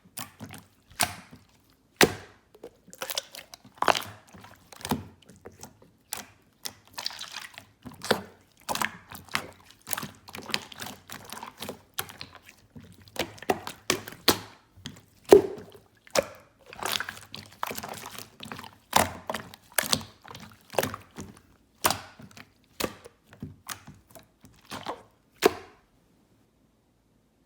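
Hands squeezing and folding slime, with irregular sticky pops and clicks a few times a second; it stops shortly before the end.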